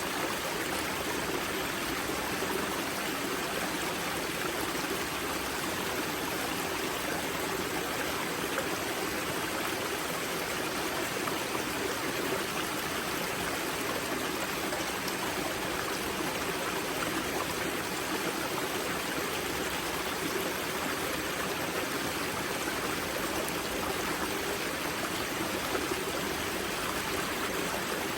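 River Grza's spring water rushing and gurgling over rocks at its wellhead, a steady, unchanging water sound.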